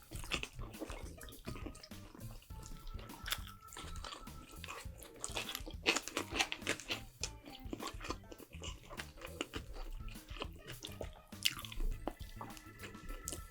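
Close-up eating sounds: wet chewing, smacking and crunching bites of Korean food, a quick run of sharp mouth clicks, over soft background music.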